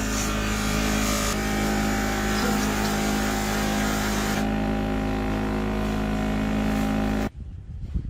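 A power tool's motor running at a steady speed, with a constant pitch, then cutting off abruptly about seven seconds in; a quieter, uneven rubbing sound follows.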